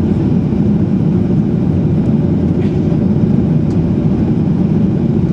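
Steady low drone inside the passenger cabin of a Boeing 737-800, the noise of its CFM56 engines and air rushing past the fuselage.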